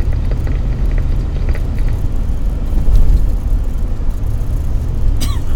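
Steady low rumble of a car driving on the road. About five seconds in there is a brief high squeak that falls in pitch.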